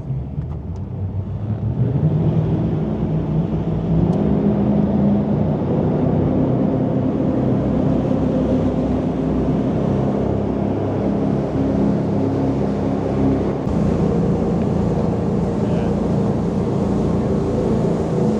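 Jet boat's engine speeding up about a second in, then running steadily at speed.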